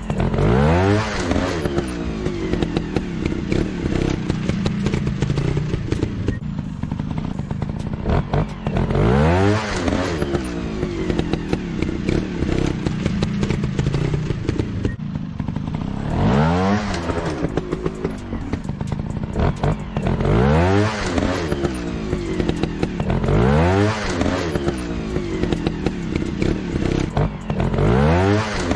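Trail motorcycle engines running, the revs climbing and dropping sharply about six times over steady running in between.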